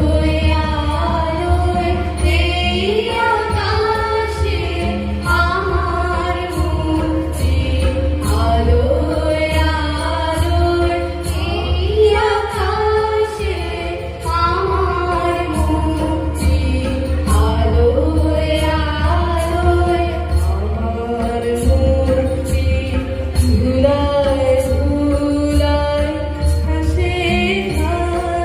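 A song: a sung melody gliding between notes over instrumental accompaniment, with a steady low hum underneath.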